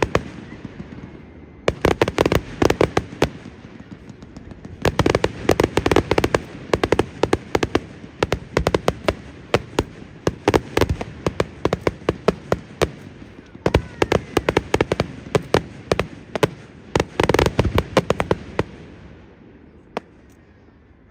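Fireworks display: clusters of rapid crackling bangs from bursting shells, several volleys one after another, each with a rumbling echo, dying away near the end.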